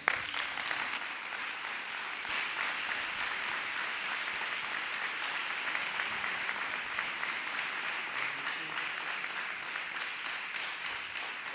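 Congregation applauding and clapping hands, starting all at once and holding steady for about eleven seconds.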